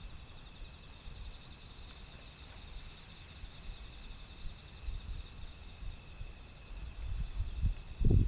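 Insects chirring steadily in a continuous high pulsing drone. Underneath is a low rumble of wind on the microphone, which builds into strong low gusts near the end.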